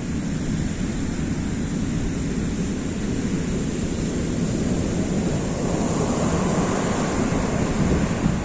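Rough sea surf breaking on a beach, a steady rush with heavy wind buffeting the microphone; a wave builds and crashes louder between about six and eight seconds in.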